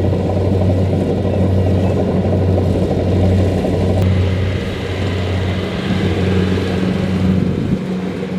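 Kubota DC-70 Plus combine harvester's diesel engine running steadily with a low, even hum; the lowest part of the hum drops away near the end.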